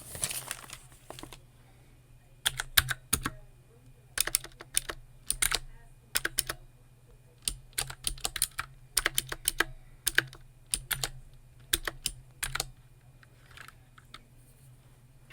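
Typing on a computer keyboard: quick runs of crisp keystrokes broken by short pauses, after a brief rustle at the start.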